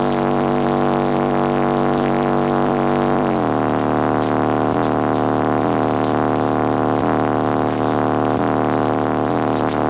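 Loud bass-heavy music through a competition car audio system with ten 18-inch subwoofers, carried by a sustained droning bass note that steps lower about three and a half seconds in.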